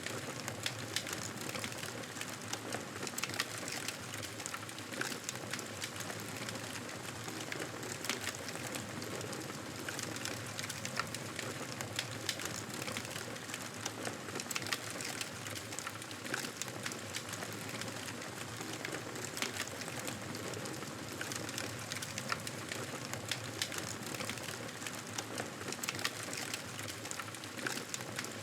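Wood fire crackling in a fireplace: many small irregular pops over a steady hiss.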